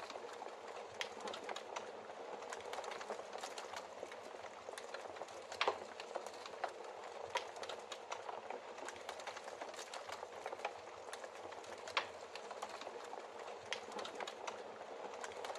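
Wood logs burning in a fireplace: a steady soft hiss of flame with continuous irregular crackling, and louder sharp pops about six seconds in and again near twelve seconds.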